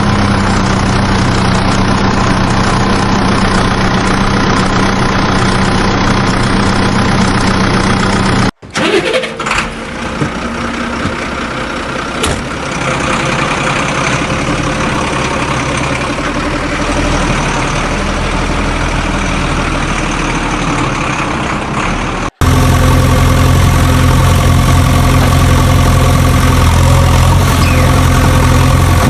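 Vehicle engine running steadily at idle, in three segments joined by abrupt cuts about 8 and 22 seconds in. The middle segment is quieter and starts unevenly before settling.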